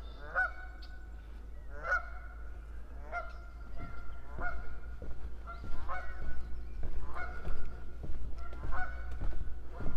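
Geese honking repeatedly, one short nasal call about every second, growing louder and more frequent in the second half.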